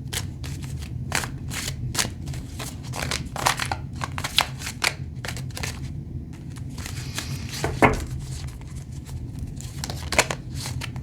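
Tarot cards being shuffled and handled: an irregular run of quick, crisp card snaps and rustles over a steady low hum.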